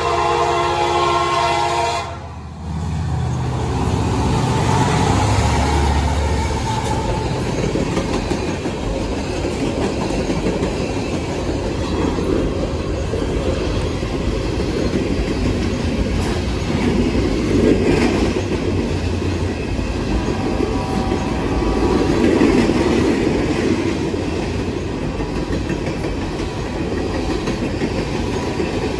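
Freight train led by an EMD SD70MAC locomotive: its horn blast cuts off about two seconds in, then the locomotive passes with a low engine rumble, and the train's cars follow rolling by with steady wheel clatter.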